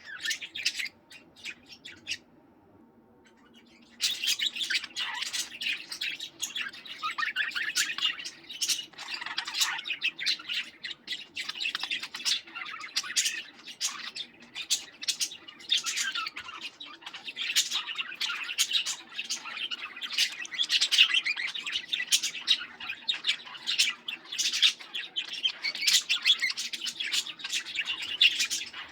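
Several pet budgerigars chattering with rapid chirps and squawks; the birds stop for about two seconds, a couple of seconds in, then take up again as dense, continuous chatter.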